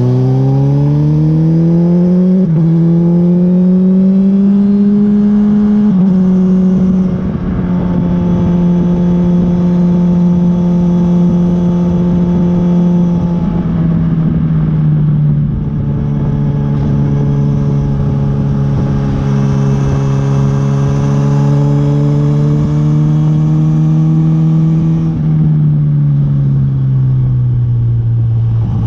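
Honda CB1000R's inline-four engine pulling hard through the gears, rising in pitch with quick upshifts about two and a half and six seconds in, then running steadily at cruising speed. The revs fall away near the end as the throttle is closed.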